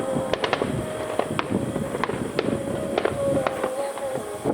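Fireworks bursting in quick succession, irregular sharp cracks and pops, with a steady, slightly wavering tone beneath them.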